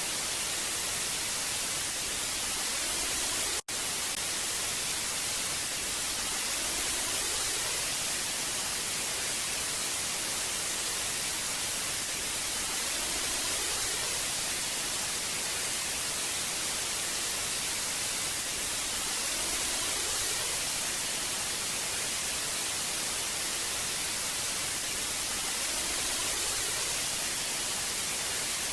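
Static from an old television: a steady hiss, strongest in the treble. The hiss cuts out for an instant about three and a half seconds in, and it swells gently about every six or seven seconds.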